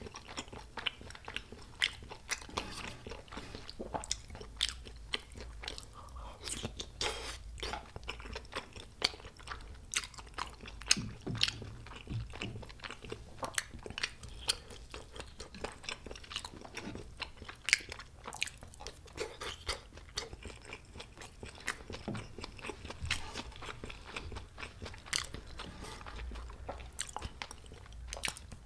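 A person chewing close to the microphone, eating spicy tteokbokki rice cakes and cheese gimbap: continual irregular sharp clicks and crunches of chewing.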